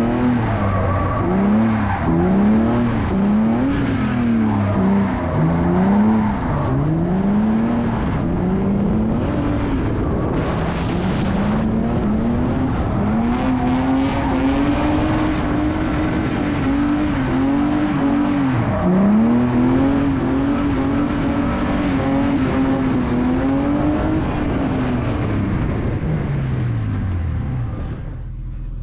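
BMW E46 drift car's straight-six engine revving hard up and down through a drift run, with long stretches held near the top of the revs and deep dips about two-thirds of the way through and near the end, over a steady hiss of tyre noise.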